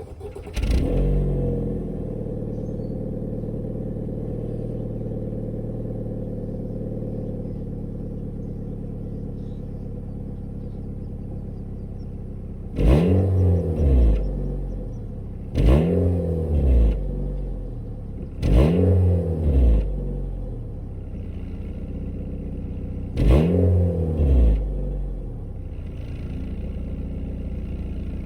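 2013 Nissan Sentra's 1.8-litre four-cylinder engine, heard through its stock exhaust, starting up and settling into a steady idle. It is then revved four times, each rev rising and falling in pitch before dropping back to idle.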